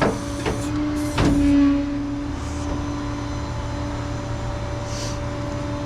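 Flatbed tow truck's engine running steadily with a constant hum, and three sharp clunks in the first second and a half.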